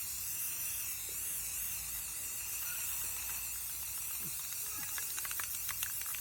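Aerosol spray paint can hissing steadily as paint is sprayed. Near the end comes a run of quick clicks, the mixing ball rattling inside the can.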